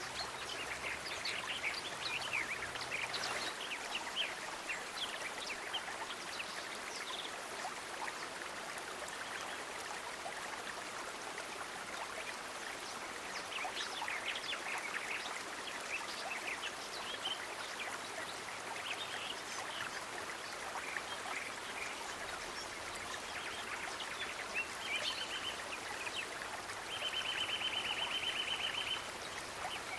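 Steady rush of a flowing stream, with scattered short bird chirps over it. Near the end come two rapid, buzzing trills, the second lasting about two seconds.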